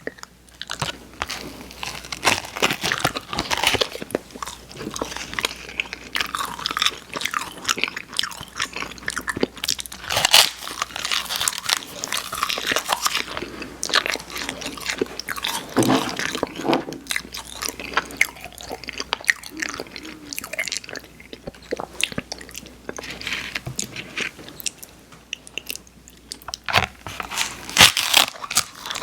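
Close-miked eating: a person biting and chewing crunchy candy, with many sharp, irregular crackles and crunches throughout.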